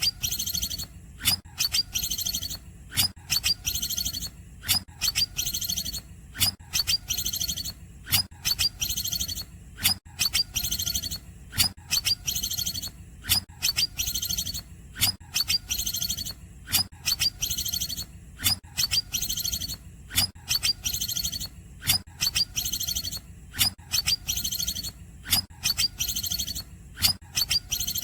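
Cucak ijo (green leafbird) singing cungkok-style filling: a fast, repeating run of sharp, high chirps, about one to two phrases a second, over a low steady hum.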